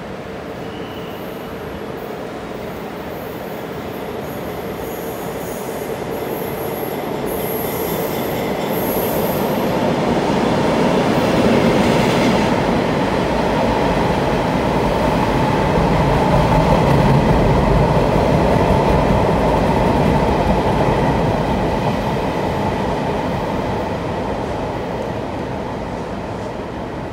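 Chu-Kuang express train passing through a station without stopping: the rumble of the train builds, peaks in the middle and fades away, with high wheel squeals about a third of the way in.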